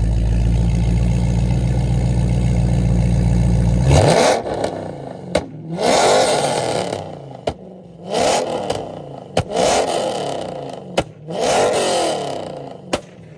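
A Dodge Charger Scat Pack's 392 Hemi V8 on a loud catless, uncorked exhaust, holding a steady deep drone and then blipped five times. Each rev falls back with sharp exhaust pops, the kind that came with a flame out of the pipes.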